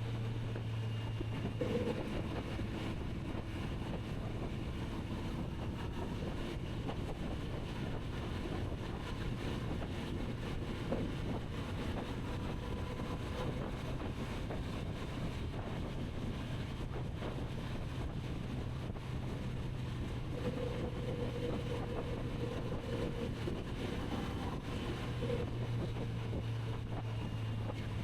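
Kawasaki Z900RS's inline-four engine running at a steady cruise, its low note holding nearly constant, under a heavy rush of wind over the microphone.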